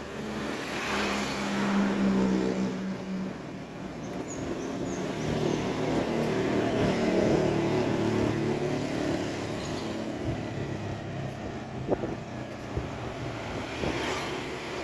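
Motor vehicles passing on a street, engines swelling and fading: one about two seconds in, another louder around seven seconds. A single sharp click comes about twelve seconds in.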